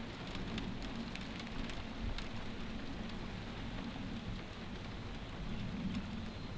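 Steady rain falling, with individual drops ticking sharply close by, most densely in the first few seconds.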